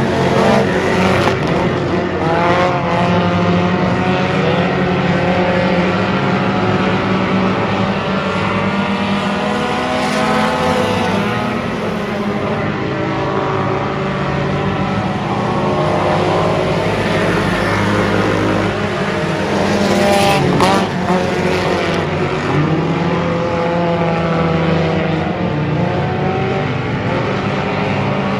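Race car engine running hard, its pitch climbing and dropping again and again as it accelerates and lifts.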